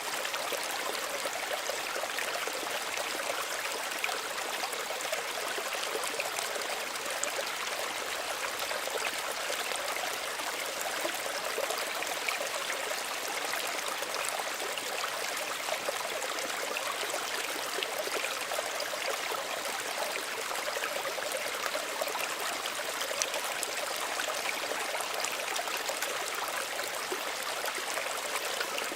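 Small stream running steadily over stones, a continuous gentle splashing and trickling with many small bright droplet sounds.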